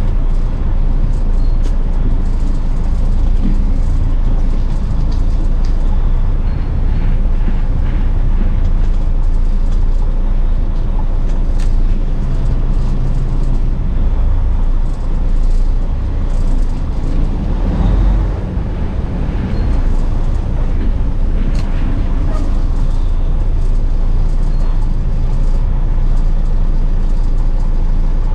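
Semi truck's diesel engine running with a steady low drone, with faint scattered ticks over it.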